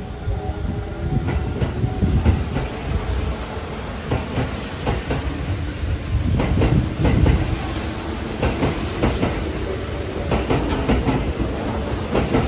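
Kintetsu Urban Liner Plus limited express electric train running along the platform, its wheels clacking over the rail joints beneath a steady rumble.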